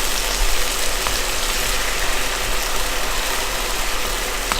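Minced garlic and ginger sizzling in hot oil in a wok, a steady sizzle over high heat.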